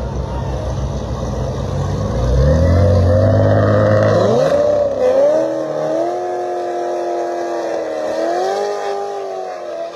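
Drag race launch: engines rumble, then about two seconds in they rev hard and accelerate away, the pitch climbing and dropping back at each gear shift before holding fairly steady as the vehicles pull down the strip.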